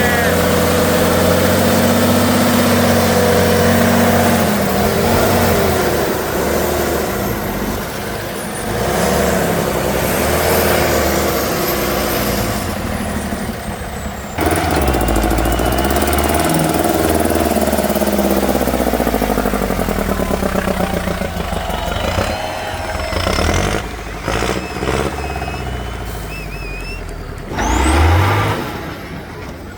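Heavy off-road truck engines running and revving under load, their pitch rising and falling. The sound changes abruptly a couple of times.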